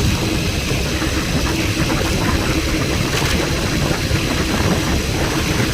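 Steady vehicle noise from travelling on a road: engine and road rumble with a hiss of wind.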